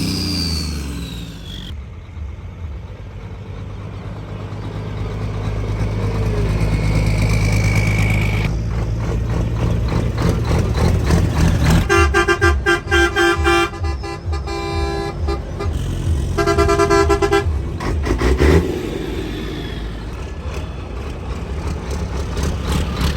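Heavy race-truck diesel engines running at low speed, with a truck horn sounding in two long blasts about halfway through.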